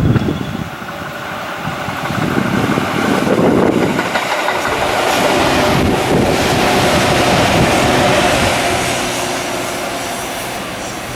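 Electric train passing at speed, its wheel-and-rail noise swelling over a few seconds and fading toward the end.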